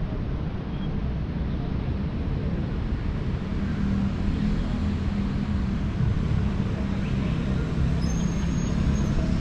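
City street traffic running steadily, with a low rumble throughout. A vehicle engine's hum grows stronger about three and a half seconds in.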